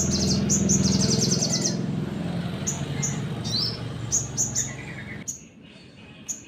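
Sogon, a small nectar-feeding songbird, giving sharp, very high chirps and a fast rattling trill. Keepers call this rapid burst style 'nembak'. A low hum runs underneath and drops away about five seconds in.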